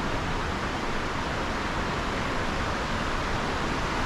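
Steady rushing of a river flowing close by, an even noise with no break.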